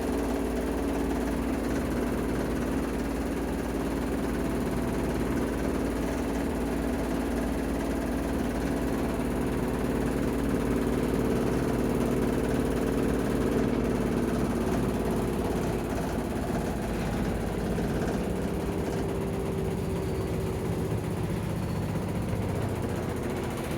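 Washing machine drum and motor running in the spin cycle, a steady whine with a low rumble, the hum sinking slowly in pitch as the drum spins down.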